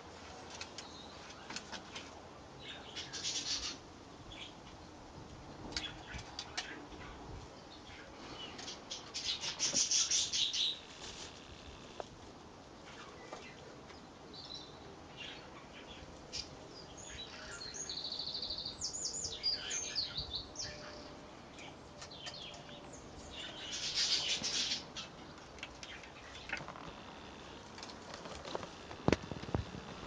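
Short bursts of high-pitched bird sound, about four of them a few seconds apart, over a faint steady background.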